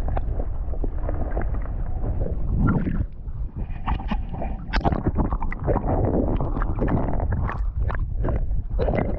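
Wind rumbling on the microphone of a kayak, with irregular splashes and knocks of water and gear against the hull, busiest in the second half.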